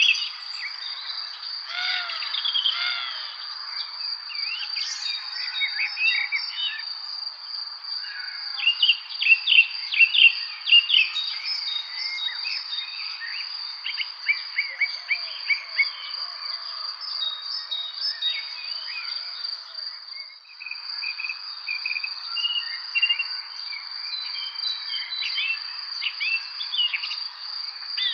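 Evening spring bird chorus: many songbirds chirping and singing in quick overlapping phrases, busiest about a third of the way in, over a continuous high-pitched trill.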